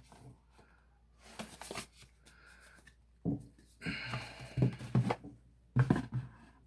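Trading cards and their cardboard and plastic packaging being handled, rustling in several short bursts.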